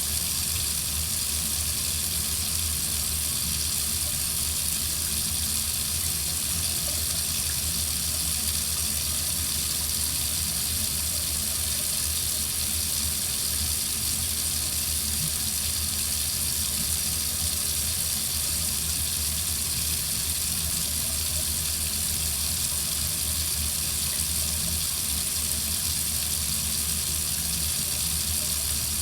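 Water running steadily from a faucet: a constant, unbroken hiss with a low rumble underneath.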